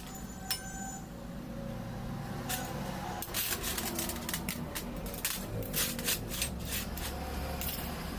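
Small metal parts and tools clinking and tapping on a workbench, many sharp clicks, most of them in the second half, over a steady low hum.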